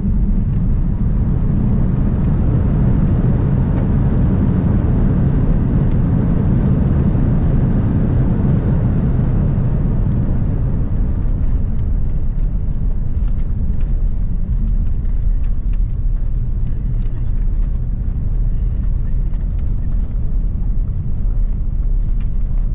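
Airbus A330 cabin noise just after landing: a steady loud rumble of the jet's engines and its wheels on the runway, which eases off after about ten seconds as the aircraft slows.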